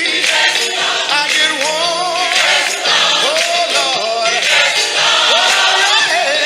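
Gospel singing with vibrato-laden voices over instrumental accompaniment, with a jingling, tambourine-like shimmer.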